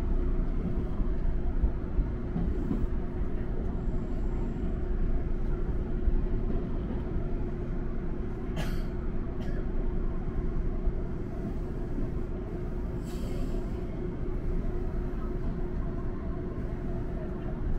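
Electric train running steadily, heard from inside the front cab: a constant low rumble of wheels on rails with a steady motor hum. Two short hisses come a little past the middle, and a longer one follows a few seconds later.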